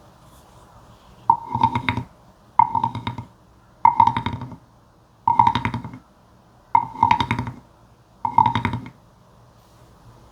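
Toad croaking: six rattling croaks, each under a second long and made of rapid ticks with a ringing mid-pitched tone, about one and a half seconds apart.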